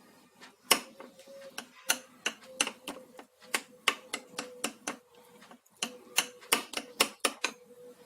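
A spoon clinking against a bowl in quick, irregular strokes while strawberry flavouring is stirred into cake batter.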